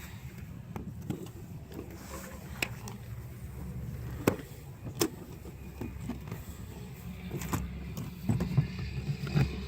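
Scattered knocks and clicks of a plywood board being fitted and pressed into place inside a truck cab, coming closer together near the end, over a steady low hum.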